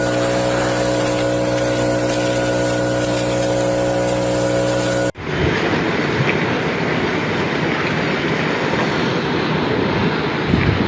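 A steady engine-like drone with several fixed pitches that cuts off abruptly about halfway, replaced by a loud, noisy rumble.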